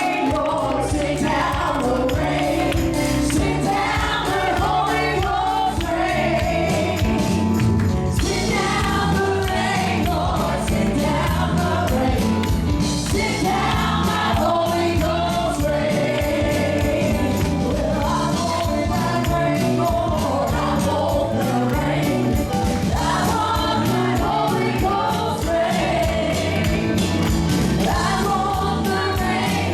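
Gospel worship song: a congregation and worship team singing together over a live band with a steady beat.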